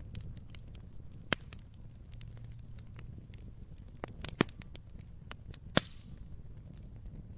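Wood fire crackling: irregular sharp pops and snaps over a low steady rumble, with three louder pops about a second in, at about four and a half seconds and just before six seconds.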